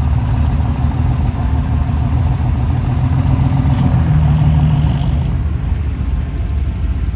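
Pulling tractor's engine running hard under load, a loud low rumble that swells and rises a little about four seconds in, then eases off.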